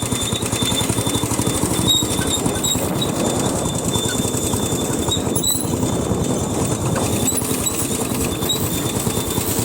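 A vehicle engine running steadily with a rapid, even pulsing throughout, as when travelling on the road.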